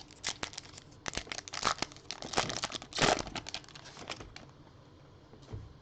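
Crinkling and tearing of a plastic trading card pack wrapper as it is torn open and handled, in a rapid run of crackles that dies away after about four seconds.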